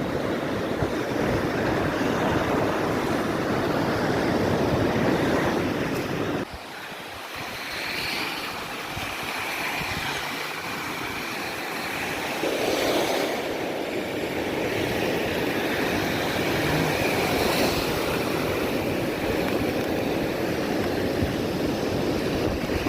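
Wind buffeting the microphone over surf while a Onewheel electric board rides along the beach. About six seconds in the wind noise drops suddenly, and a thin high whine from the board's hub motor rises and falls over the sound of the waves.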